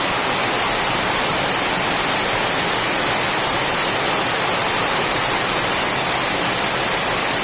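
Heavy rain falling steadily on coconut palm fronds: a dense, even hiss with no separate drops standing out.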